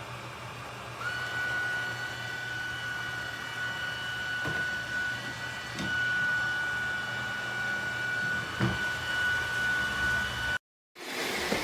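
Roomba robot vacuum running with a steady hum, joined about a second in by a steady high-pitched whine, with a few light knocks along the way. The sound cuts out briefly near the end.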